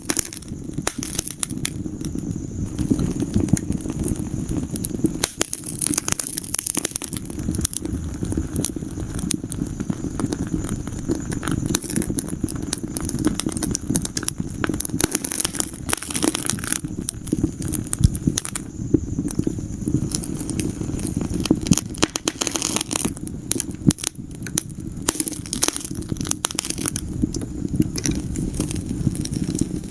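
Wood fire burning in a fireplace, crackling and popping in a dense, irregular stream of snaps over a steady low rumble of the flames.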